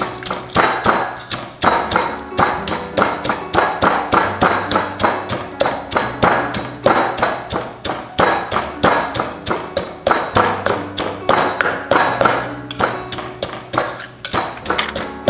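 Pestle pounding fresh chillies, dry roasted chillies and garlic in a mortar, a steady rhythm of knocks at about three strokes a second.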